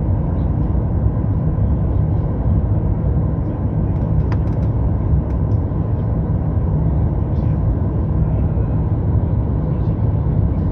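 Steady cabin roar inside a Boeing 737 MAX-8 in flight: its CFM LEAP-1B engines and the airflow over the fuselage, heavy and low, with a faint steady hum above it and a small click about four seconds in.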